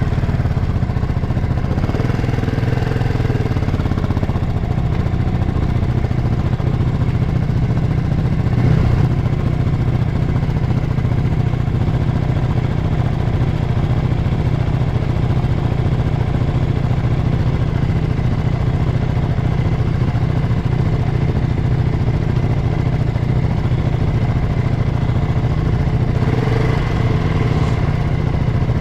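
KTM 690 SMC-R supermoto's single-cylinder engine running steadily, heard on board, its pitch changing little.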